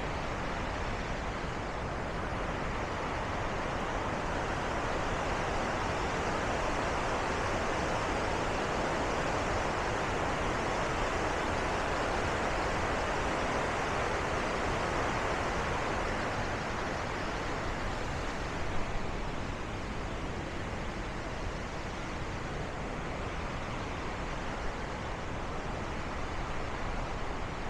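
Steady rushing roar of Bow Falls, the waterfall on the Bow River, growing a little louder midway and easing off in the second half.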